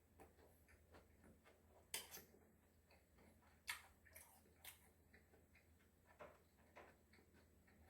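A person chewing food close to the microphone: soft, irregular wet clicks and smacks, a few sharper ones about two seconds in and near the middle, over a faint steady hum.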